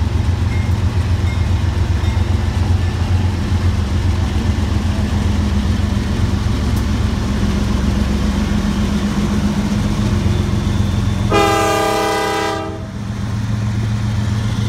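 Freight train of GE diesel locomotives rumbling steadily past. About eleven seconds in, a single chime horn sounds for about a second and a half: the lead unit's Nathan K5LA five-chime horn.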